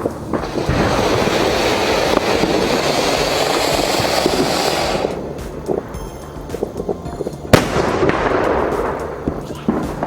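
Diwali fireworks going off: a dense stream of hissing and crackling for about five seconds, then scattered small pops and one sharp, loud bang about seven and a half seconds in.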